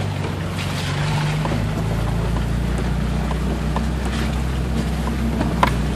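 Nissan Xterra engine running at a steady low drone while driving a rough mountain road, its note shifting about two seconds in, with scattered light clicks and knocks.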